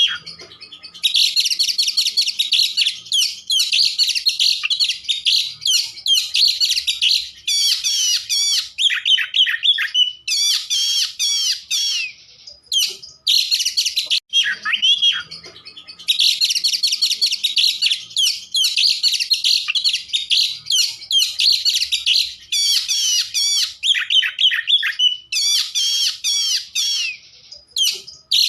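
Oriental magpie-robin (kacer) singing nonstop in full voice: a loud, fast, varied run of whistles, trills and quick phrases, broken by two short pauses near the middle.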